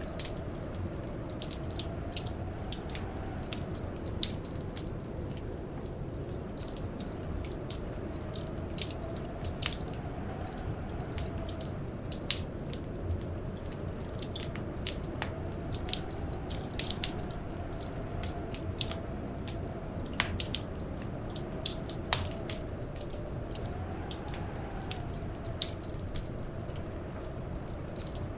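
Wood fire crackling in a fireplace: frequent sharp pops and snaps, several a second, over a steady low rumble of burning. Underneath runs a soft wind howl that slowly rises and falls in pitch.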